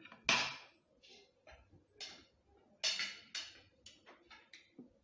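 Close-up eating sounds: a string of short, irregular chewing and smacking noises, loudest about a third of a second in and again near the three-second mark.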